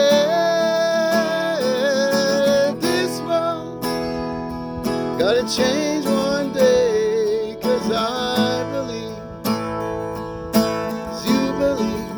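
Song with strummed acoustic guitar under a long-held, wavering sung melody that has no clear words.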